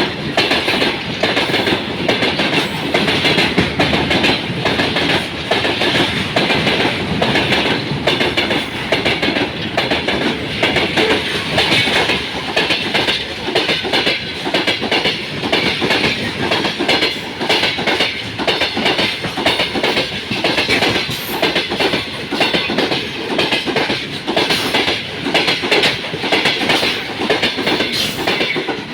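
Freight train rolling past, its wagon wheels clattering steadily and continuously over the rail joints.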